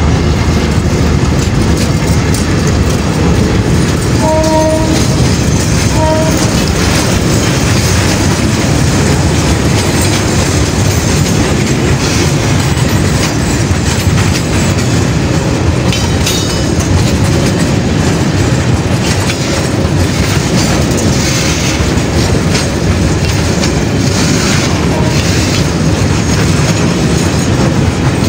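Freight train of container flat wagons rolling past close by, a loud steady rumble with the clatter of wheels on the rails. A horn gives two short blasts about four and six seconds in.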